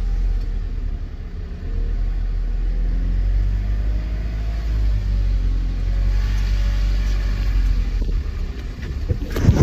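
Test truck's engine running with a steady low rumble as it drives slowly around the course, kept under 20 km/h. A short burst of loud knocking just before the end.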